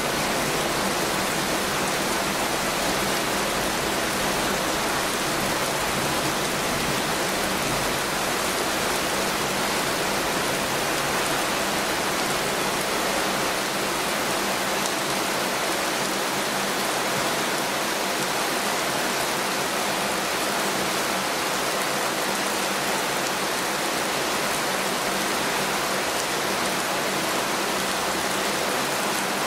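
Heavy rain falling steadily, an even, unbroken hiss with no breaks or changes.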